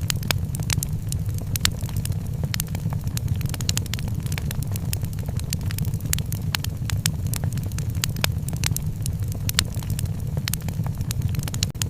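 Wood fire burning in a fireplace: a steady low roar with frequent sharp, irregular crackles and pops.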